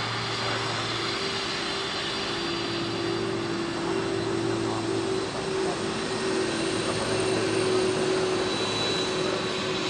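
Jet airliner engines running steadily: a continuous rushing roar with a steady low hum and a faint high whine.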